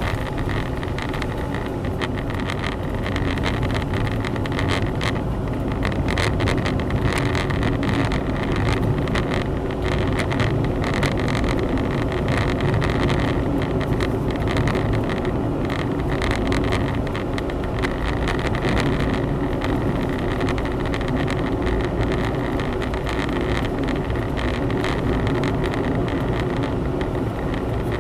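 Honda Zest 4WD kei car driving, heard from inside the cabin: steady engine and road noise.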